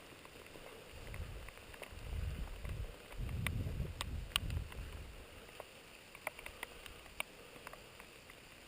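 Wind buffeting the microphone in low rumbling gusts for the first few seconds, easing off, with a scattering of small sharp clicks and ticks throughout.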